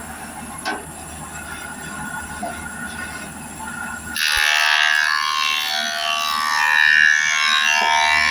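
Wood planing machine running, then from about four seconds in cutting into an old teak board with a sudden loud, high-pitched whining, hissing cutting noise.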